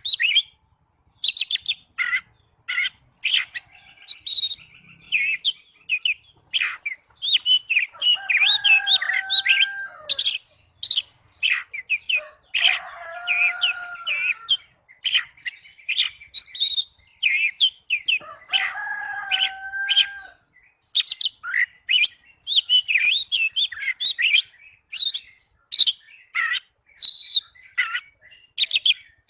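Oriental magpie-robin (kacer) singing a fast, varied song of high chirps and whistles, broken three times by lower, longer phrases.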